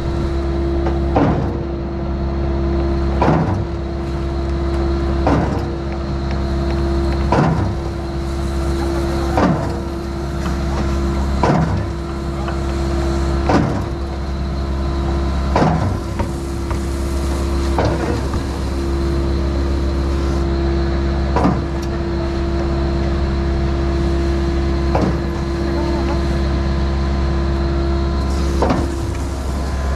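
Skid-steer-powered Mud Demon concrete pump running under its hydraulic drive with a steady engine hum, a sharp clunk about every two seconds as the pump shifts stroke, the clunks coming further apart in the second half.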